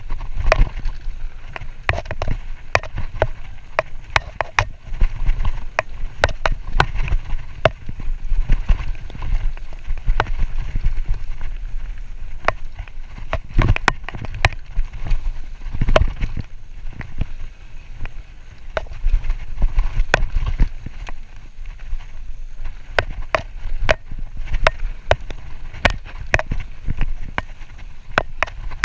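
Mountain bike riding a rough dirt trail: a steady low rumble of wind and tyres on the microphone, broken by frequent sharp clicks and rattles from the bike over bumps.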